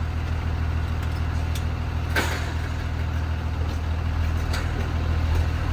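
Blue Bird Vision school bus engine running with a steady low drone, with a few short sharp clicks over it, the strongest about two seconds in.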